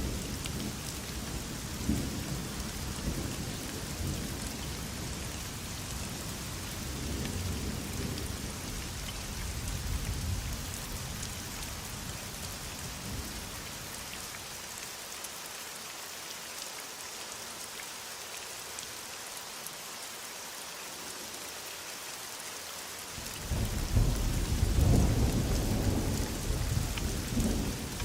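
Heavy rain falling steadily with a hiss, with thunder rumbling low in the background; a louder roll of thunder comes in near the end.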